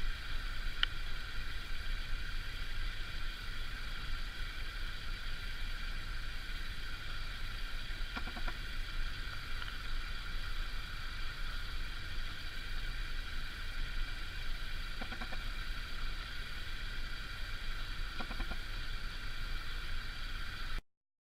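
A pileated woodpecker pecking at a suet feeder in three short bursts of soft taps over a steady high-pitched drone of several tones. The sound cuts off suddenly near the end.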